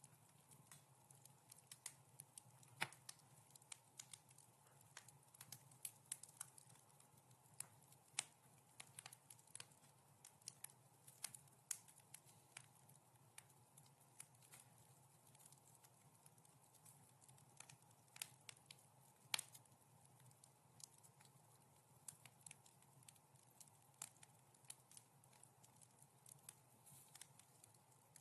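Wood fire crackling in a fireplace: soft, irregular snaps and pops, a few of them sharper, over a faint steady low hum.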